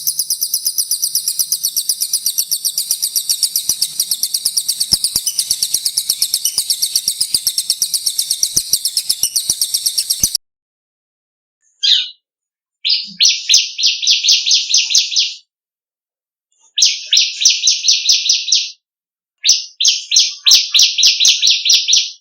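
Recorded songs of the cililin and ciblek songbirds: first one long, very high, fast rolling trill lasting about ten seconds, then, after a short pause, three shorter bursts of rapid repeated notes a little lower in pitch.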